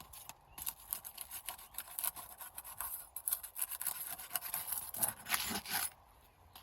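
Asphalt roof shingles being lifted and pried apart: a run of gritty scraping and crackling clicks, with a short lull about three seconds in, stopping near the end.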